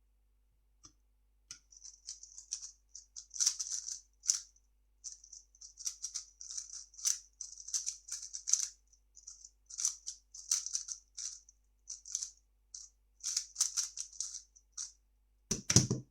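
A 3x3 speed cube being turned fast during a solve: rapid plastic clicking and clacking of the layers in quick flurries with short pauses, lasting about fourteen seconds. A louder, deeper thump near the end.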